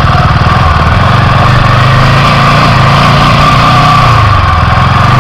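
Motorcycle engine running on the move, a steady low pulsing note that wavers slightly in pitch, with wind hiss over it.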